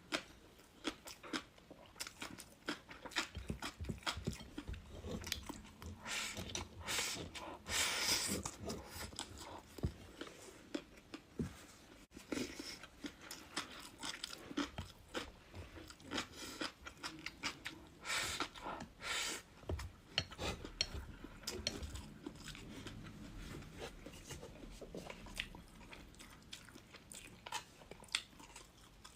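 A person chewing and crunching crisp food, with irregular crackly bites and louder crunches about seven seconds in and again about eighteen seconds in.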